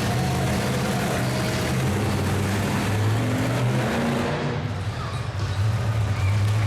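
A big vehicle engine running at a steady low rumble, dipping briefly near the end.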